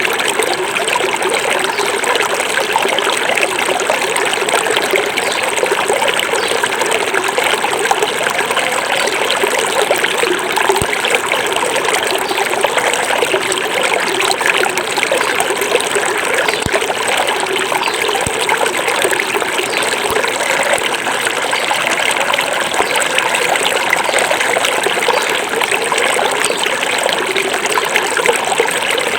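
Small forest river flowing over rocks: a steady, continuous rush and trickle of running water.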